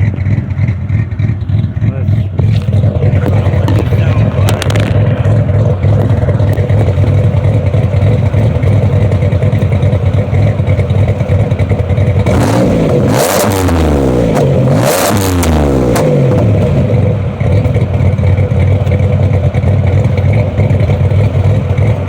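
Cammed Pontiac Grand Prix GT's supercharged 3.8-litre V6 idling steadily through an aftermarket exhaust that is only loosely fitted, not yet welded on or hung. About twelve seconds in it is revved twice in quick succession, each rev rising and falling back to idle.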